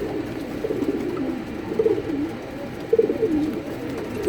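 Several racing pigeons cooing, their low warbling coos overlapping without pause, with louder coos about two seconds in and about three seconds in.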